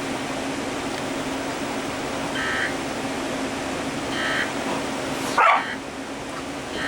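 A dog barking a few times, the loudest bark about five seconds in, over a steady hiss and low hum.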